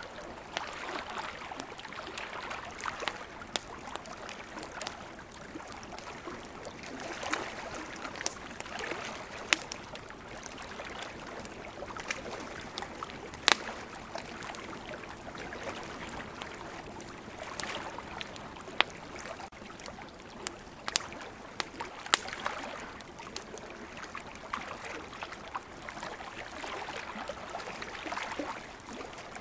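Wood fire crackling, with scattered sharp pops and a few louder snaps, over the steady wash of ocean waves that swells and fades every several seconds.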